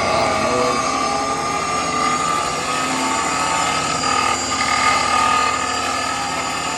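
Treadmill running, its electric drive motor giving a steady whine over a continuous mechanical whir.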